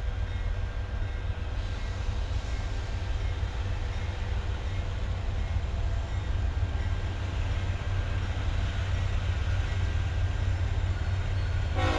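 Steady low rumble and hum of an Amtrak passenger train standing at the platform. A few level tones set in right at the end.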